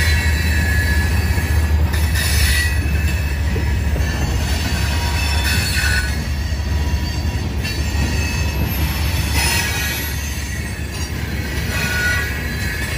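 Loaded CSX coal hopper cars rolling past over the rails: a steady low rumble with high-pitched wheel squeal coming and going.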